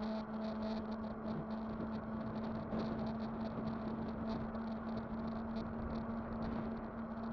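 Electric bike under way: a steady motor whine at one pitch over tyre and wind noise, with a faint high hiss pulsing about four times a second.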